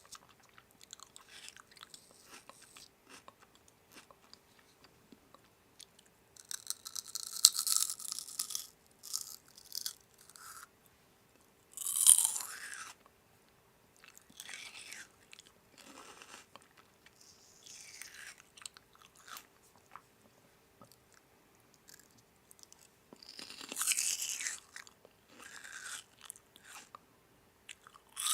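Crunchy food being bitten and chewed in irregular crackling bursts, the loudest crunches about a third of the way in and again near the end.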